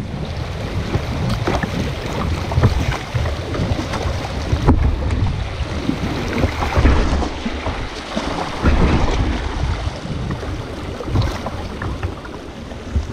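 Water splashing around a kayak as it is paddled on a river, with scattered short splashes and knocks, and wind buffeting the microphone in uneven low rumbles.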